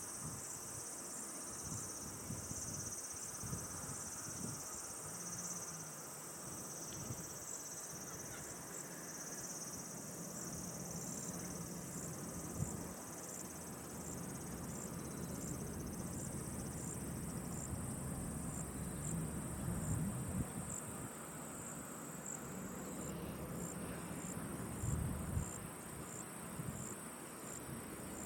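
Insects, crickets among them, trilling steadily and high-pitched, with a regular chirp repeating about once or twice a second. Occasional low rumbles lie underneath.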